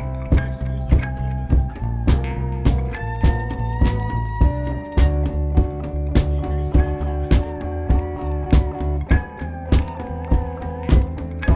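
Instrumental band jam: guitar notes held and bent over a steady bass line, with a regular drum beat.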